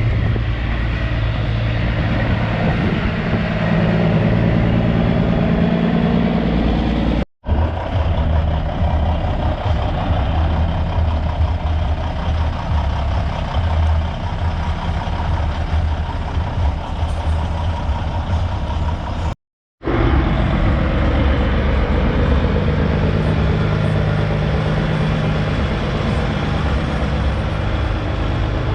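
Big-rig truck engines running low and steady as semi trucks roll in, broken twice by a brief drop to silence where clips are cut together.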